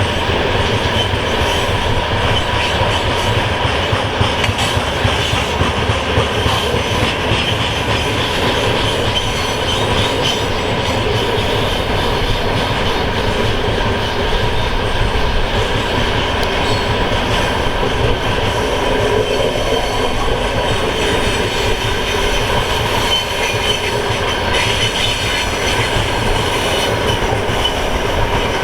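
Freight train wagons rolling past: a steady rumble of wheels on rails with a thin, high wheel squeal over it.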